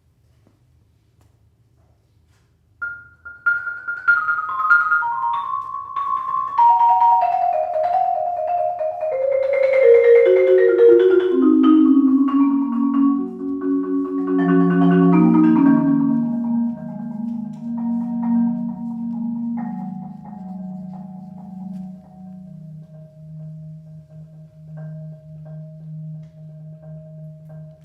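Live instrumental music. After about three seconds of near silence, an instrument plays a slow falling run of ringing notes from high to low, then settles on a low held note with a higher note lingering above it.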